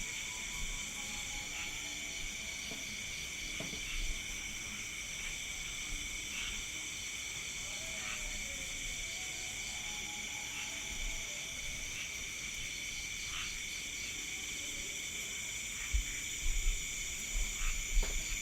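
Night insects, crickets among them, chirring steadily at several high pitches, with a faint pulsing trill above them. A few low knocks or rumbles come near the end.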